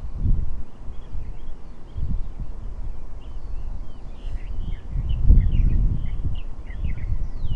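Small birds chirping and giving short down-slurred whistles again and again, over a low, gusting rumble of wind on the microphone that swells about five seconds in.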